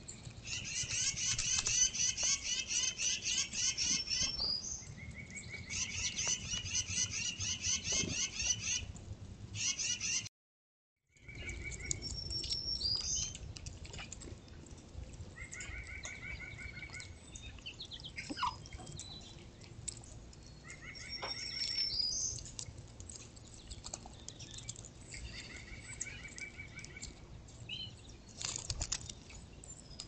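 Songbirds singing. Fast, high trills repeat through the first nine seconds. After a brief dropout near ten seconds, shorter, lower phrases come back every few seconds.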